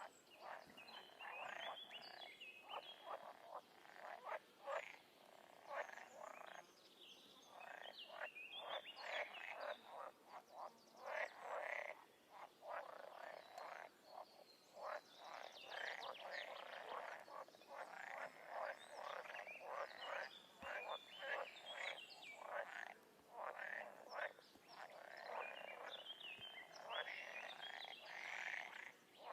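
A chorus of frogs calling, many short croaks overlapping one after another with a few brief lulls.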